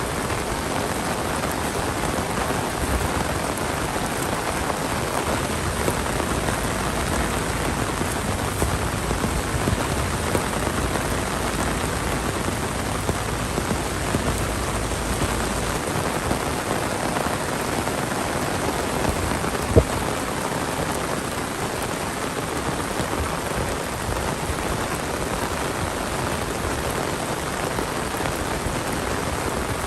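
Heavy monsoon rain pouring down steadily, a dense even hiss of drops on the ground. One sharp tap about two-thirds of the way through.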